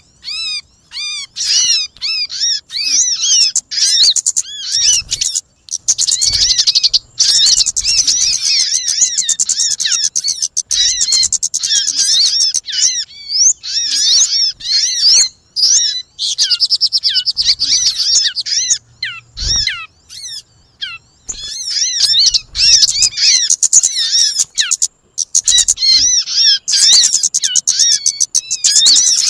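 Bird-lure recording of kemade and sogon calls, as used by bird catchers: dense runs of rapid, high, repeated chirps with short pauses between runs.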